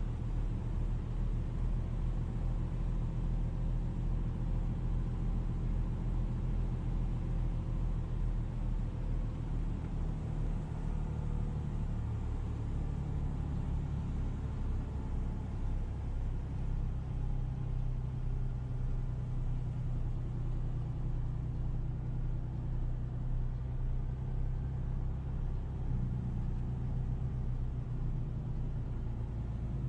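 Car engine running with road rumble, as from a moving car; the engine note settles at a new pitch a few times.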